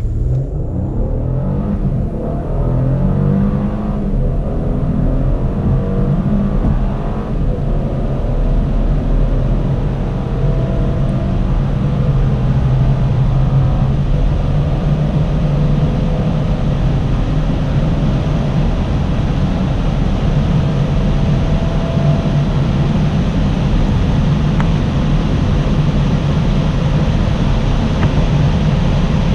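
Mercedes-Benz E 400 4Matic Coupé's 3.0-litre petrol V6 accelerating hard from a standstill. The engine pitch climbs and drops back at several quick upshifts in the first eight seconds or so, then settles into a steadier high drone with road and wind noise as speed builds.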